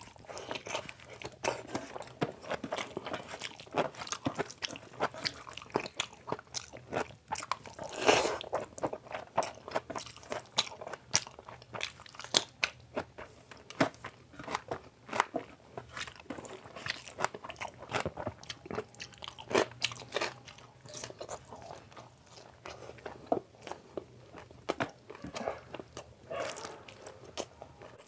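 Close-up chewing of mouthfuls of rice and curry eaten by hand: a continuous run of quick wet mouth clicks and bites, with a louder burst about eight seconds in.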